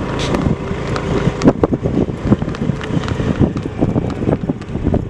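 Wind buffeting the microphone during outdoor movement, with a steady low rumble and frequent irregular knocks.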